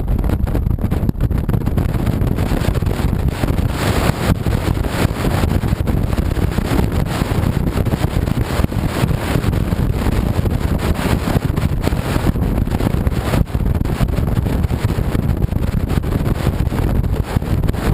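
2007 Honda VTX 1300C V-twin cruiser motorcycle under way, its engine and road noise running steadily beneath heavy wind buffeting on the microphone.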